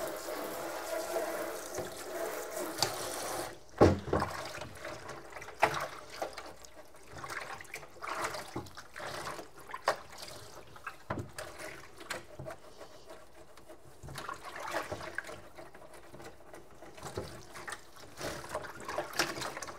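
A kitchen tap runs for about three and a half seconds and stops, followed by scattered knocks and clatter of things being handled.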